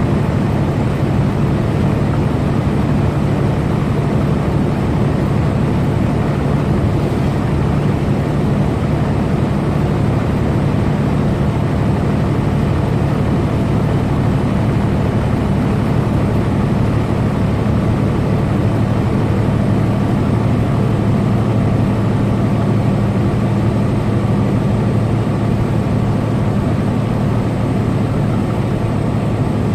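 Semi-truck running steadily on the highway: a constant low engine hum under road and tyre noise, with no change in speed or load.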